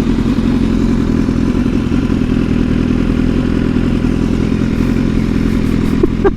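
Sport motorcycle engine running steadily while riding, with no revving or gear changes, under a steady rush of road and wind noise.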